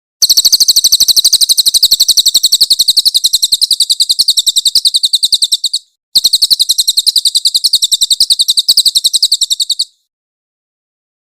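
Crested jay (cililin) giving its loud, harsh rattling call: a fast, high-pitched machine-gun rattle held for about five and a half seconds, a short break, then a second rattle of about four seconds that stops abruptly.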